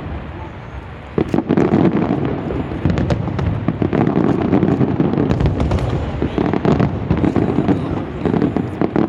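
Fireworks going off in a dense, continuous barrage of bangs and crackling pops over a deep rumble, starting in earnest about a second in.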